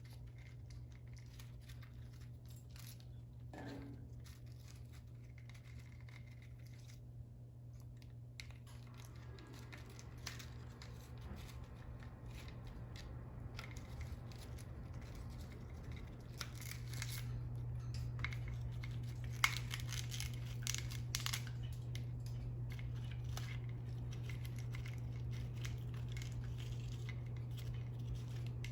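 An African grey parrot's beak working at a foraging toy: scattered clicks and scratches, busiest about two-thirds of the way through. A steady low hum runs underneath and gets louder about 17 seconds in.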